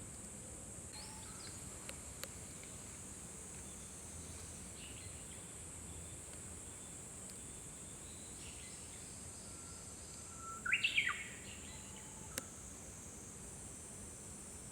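Japanese bush warbler singing one loud 'hō-hokekyo' phrase about ten seconds in: a held whistle followed by a quick upward flourish. Fainter, more distant song phrases come earlier, over a steady high-pitched insect drone.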